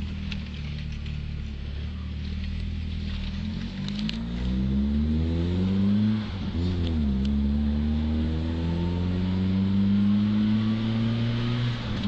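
1992 Chevrolet Monza Barcelona's four-cylinder engine rumbling through its exhaust: idling steadily, then revved up about four seconds in, a quick blip that rises and falls around six and a half seconds, then held at raised revs that creep up slightly before dropping back near the end.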